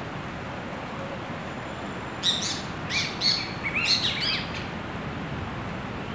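A bird calling in a quick run of high, bending notes for about two seconds, starting about two seconds in, over a steady background hiss.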